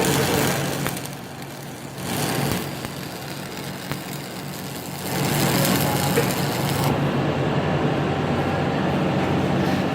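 Stick-welding arc crackling as an E7014 rod on an AC225 arc welder is run along a crack to close the gap, over a steady low hum. The arc dies down twice, briefly in the first half, then burns steadily from about halfway on.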